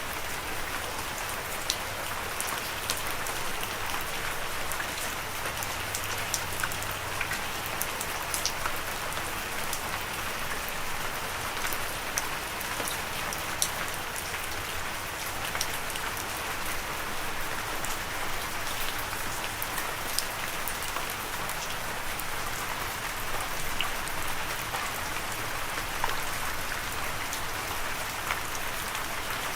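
Steady rain falling, with a continuous hiss and many individual drops ticking sharply on a hard surface.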